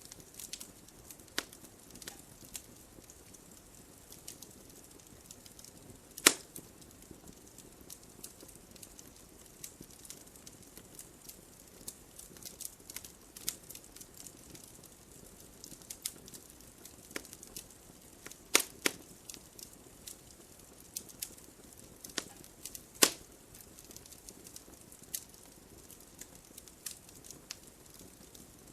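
Wood fire in a fireplace crackling: irregular sharp snaps and pops over a soft steady hiss, with a handful of louder pops spread through.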